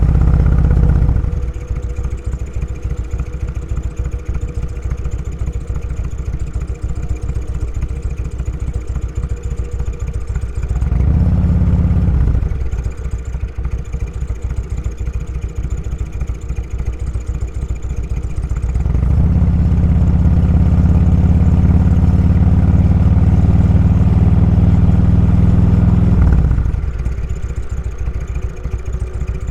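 Motorcycle engine running at road speed. The engine grows louder briefly right at the start and again about eleven seconds in, then pulls harder for several seconds in a longer stretch near the end, its pitch rising gently before easing back.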